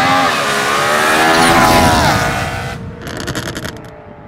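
BMW E93 M3's V8 engine accelerating hard as the car drives by, its pitch climbing and then dropping about two seconds in. About three seconds in, a quick run of sharp crackles, and then the engine fades away.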